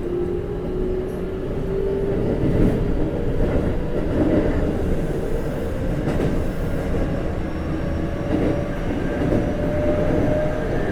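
Keikyu 1500 series (1700 subseries) electric train heard from inside the car as it gathers speed: the Toyo GTO-VVVF inverter and traction motors give a tone that rises steadily in pitch, over a steady rumble of wheels on rail with a few light rail-joint clicks.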